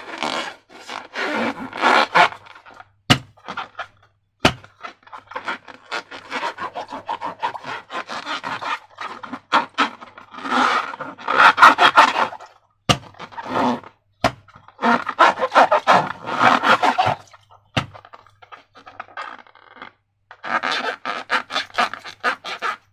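Slime and rubber balloons being handled up close: repeated bursts of sticky, crackling scraping, each a second or two long, broken by short pauses, with about five sharp snaps scattered through.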